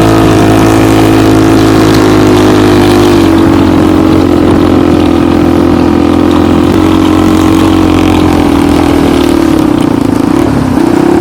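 Homemade snowmobile's small engine running steadily under load as it drives uphill in snow, its pitch dipping slightly a couple of times, sagging near the end and then picking up again.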